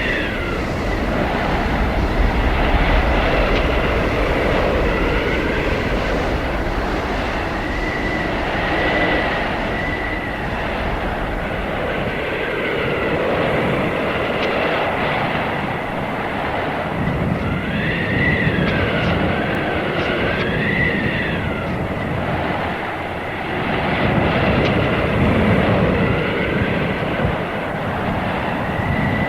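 Blizzard wind howling in steady gusts, with high whistling tones that rise and fall, strongest about two-thirds of the way through.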